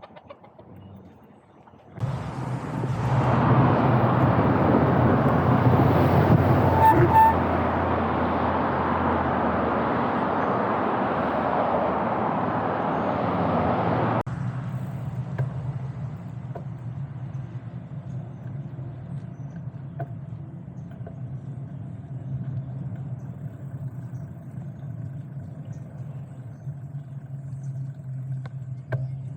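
Steady road and traffic noise with a low rumble under it. It starts suddenly, runs loud for about twelve seconds, then drops abruptly to a quieter steady rumble about halfway through.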